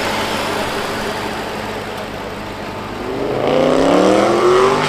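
A car engine revving up, its pitch climbing for nearly two seconds from about three seconds in, over steady background noise.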